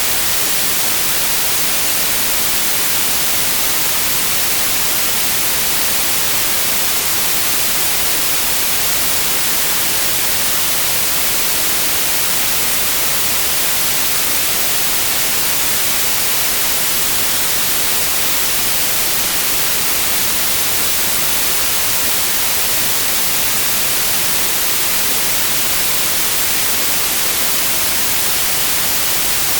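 Synthetic white noise: a loud, steady, even hiss across the whole range of pitch, with no change or break.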